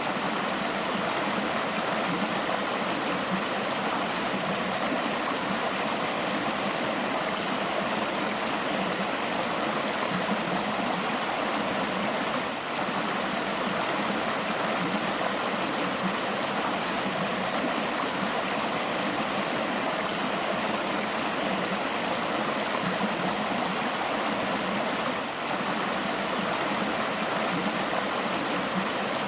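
River water flowing: a steady, even rush of running water, briefly dipping twice.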